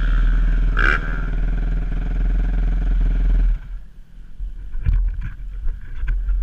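Yamaha YZ250F's single-cylinder four-stroke engine running at a steady speed, then cutting out suddenly about three and a half seconds in, leaving a few scattered knocks and clatter.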